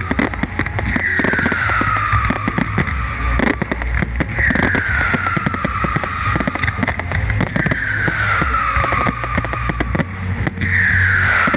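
Fireworks display: a dense run of crackling bangs over a low rumble, with a high whistle falling in pitch that comes about every three seconds.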